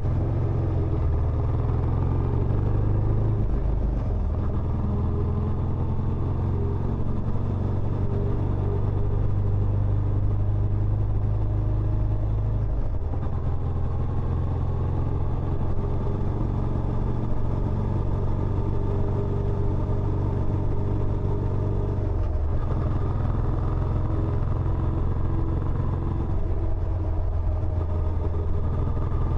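Benelli Imperiale 400's single-cylinder engine running steadily through its stock exhaust, its low note shifting slightly a few times.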